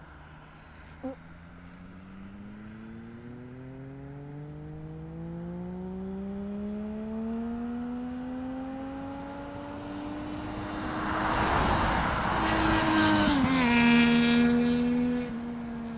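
Triumph Daytona 675 three-cylinder engine through a Jardine slip-on exhaust, its pitch climbing steadily as the bike accelerates toward the microphone. It is loudest as it passes, with the pitch dropping sharply, then it turns quieter and lower near the end. A short click sounds about a second in.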